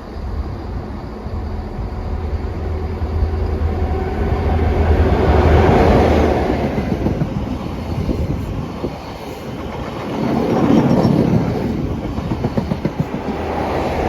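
Train running on the rails, its rumble swelling loud twice, with wheels clattering over rail joints in the second half.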